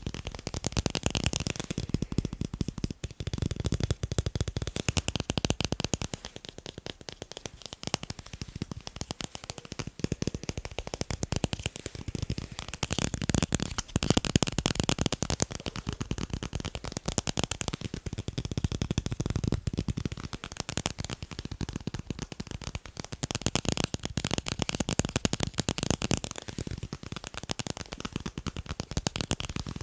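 Fast tapping on tape: a dense, unbroken run of quick taps and clicks that swells louder and eases off every few seconds.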